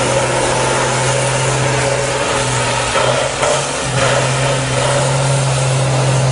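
Race truck's engine held at high revs through a long burnout, the drive wheels spinning. The steady engine note wavers briefly about halfway through, then settles again.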